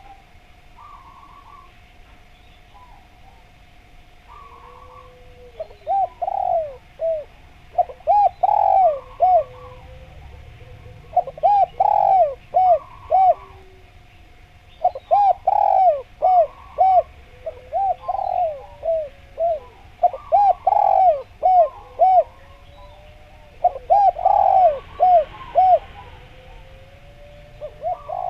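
Spotted dove (derkuku/tekukur) cooing in short repeated phrases of several quick coos, a phrase every second or two. The phrases are faint at first and loud from about five seconds in. Faint high chirps of small birds sound behind it.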